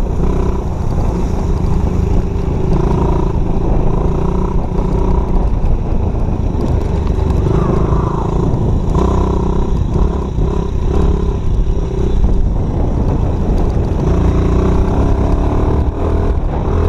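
Dirt bike engine running steadily and loudly, its note shifting a little in pitch.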